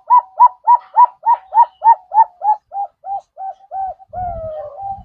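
Zebra dove (perkutut) calling: a rapid series of short cooing notes, about three a second, growing fainter and slightly lower. It ends in one longer drawn-out coo about four seconds in, with a low rumble beneath it.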